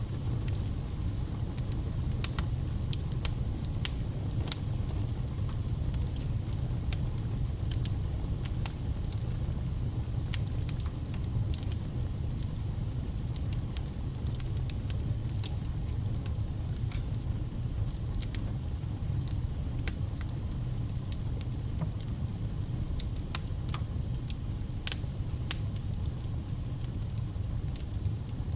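Wood fire burning steadily: a low rumble of flame with frequent irregular crackles and pops of burning logs.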